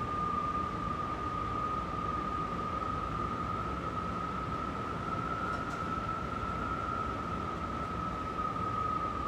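Strong wind howling: a steady rushing noise with a high whistling tone over it that rises a little in pitch and falls back near the end.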